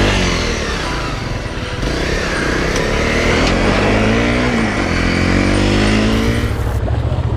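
Motorcycle engine pulling away, its pitch rising and dropping several times as it accelerates through the gears, with wind noise over the microphone.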